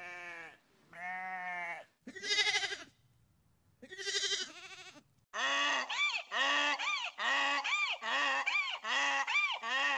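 Animal calls: four separate pitched calls in the first five seconds, then a quick run of short, arched calls, about two a second.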